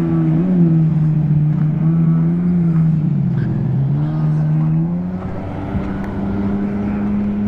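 Jet ski engine running, its pitch sagging about three seconds in, then rising with the throttle and holding steady over the last couple of seconds.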